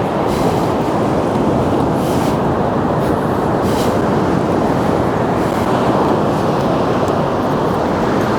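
Steady roar of wind blowing on the microphone, with beach surf behind it.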